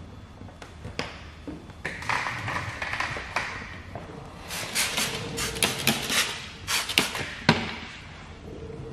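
Squeegee work on wet paint protection film: a run of short scraping swishes and taps, thickest in the middle of the stretch, with a brief faint squeak.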